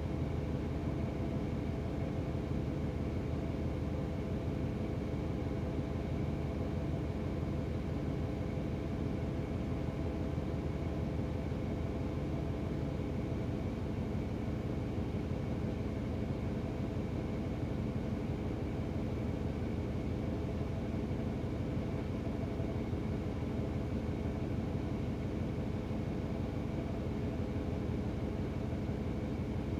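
An engine idling steadily with a constant low hum, unchanged throughout.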